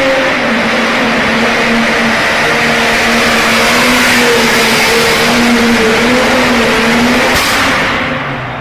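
Competition pulling tractor's engine running flat out under load, held at a high, nearly steady speed with slight wavering in pitch; it fades away near the end.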